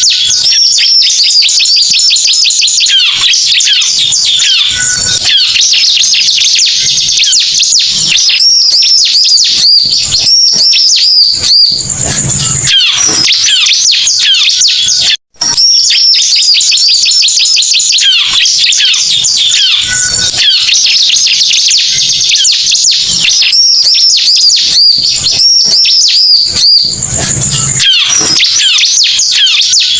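Ciblek (bar-winged prinia) song: rapid high chirps and trills, looped as a lure call for trapping. It drops out for an instant about halfway through, where the loop restarts.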